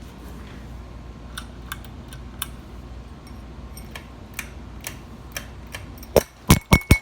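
52-inch Regency ceiling fan running with a steady low hum and light, irregular ticking clicks. About six seconds in, several much louder sharp knocks follow.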